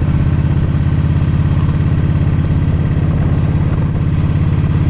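Cruiser motorcycle engine running steadily under way, with a deep, evenly pulsing exhaust note.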